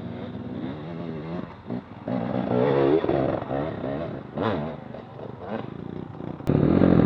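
Dirt bike engine revving, its pitch rising and falling as the throttle is worked, growing suddenly louder near the end.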